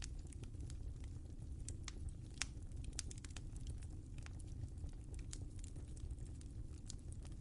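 Wood fire crackling in a fireplace: irregular sharp pops and snaps over a steady low rumble of the flames, with one slightly louder pop about two and a half seconds in.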